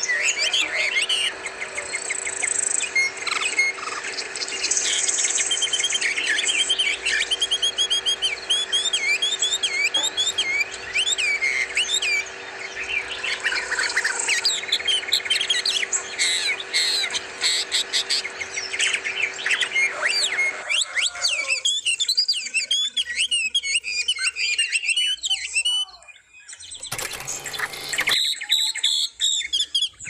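A chorus of caged songbirds chirping and calling all at once, in quick overlapping twitters and whistles with occasional squawks. A steady low hum underneath stops about two-thirds of the way through, and a brief burst of noise comes near the end.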